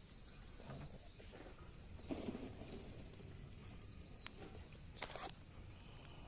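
Small wood fire of gathered zelkova and willow branches crackling quietly, with a few sharp pops: one about four seconds in and a quick cluster a second later.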